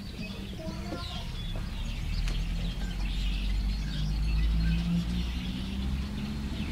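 Birds chirping and twittering over the low rumble of a heavy truck engine that swells to its loudest about two-thirds of the way through: a garbage truck drawing near.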